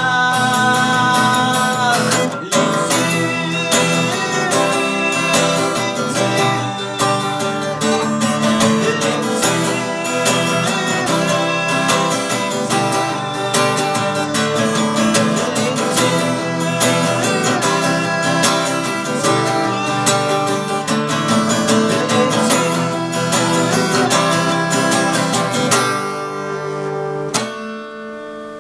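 Acoustic guitar playing an instrumental passage, easing off near the end and closing on a final chord that rings out.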